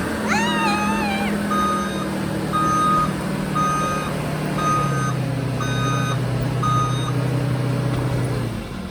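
A truck's backup alarm beeping about once a second over its running engine. The engine drops in pitch about halfway through and cuts off near the end, and a short wavering squeal sounds just after the start.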